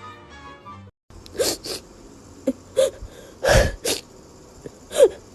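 A dog sneezing over and over in short, sharp bursts, about six in four seconds, some with a brief squeak. Background music plays for the first second and then cuts off.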